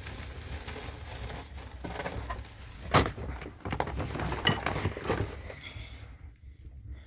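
Irregular knocks and clinks of objects being handled, with one sharp knock about three seconds in and a brief ringing clink shortly after, over a low rumble.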